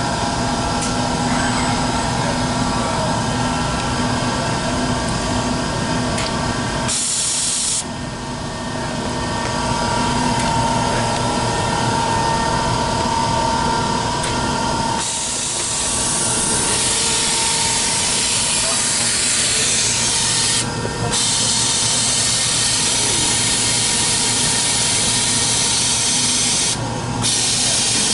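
Needle grinder's automated feeder cycling: a steady machine hum with a short hiss of air about seven seconds in, then from about halfway a continuous loud air hiss that cuts out briefly twice.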